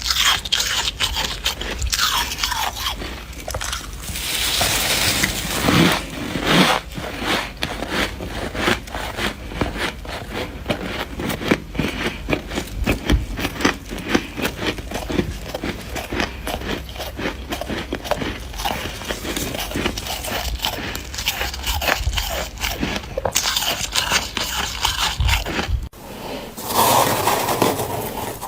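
Dry deep-freezer frost being bitten and chewed: a dense run of crisp crunches, with stretches of scraping in between.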